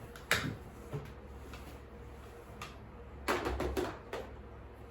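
A sharp click, then about three seconds in a short clatter of small hard objects being handled and knocked together.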